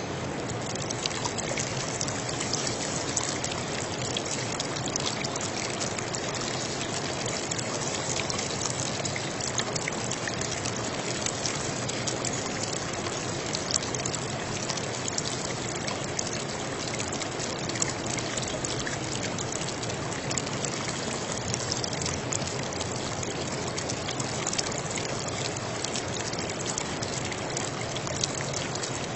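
Running water trickling steadily: an even rush full of fine splashing ticks, with no break or change.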